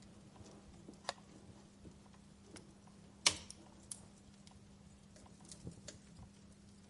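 Wood fire crackling in a fireplace: scattered sharp pops and snaps over a faint hiss, the loudest pop a little over three seconds in, with a steady low hum underneath.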